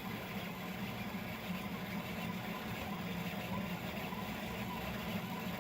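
3D printer printing at high speed (250 mm/s): stepper motors and cooling fans running in a continuous, busy drone with a strong low hum.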